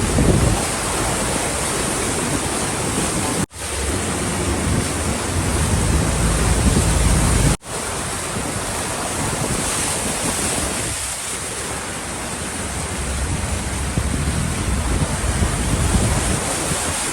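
Steady rush of floodwater with wind buffeting the microphone. The sound cuts out suddenly twice, about three and a half and seven and a half seconds in.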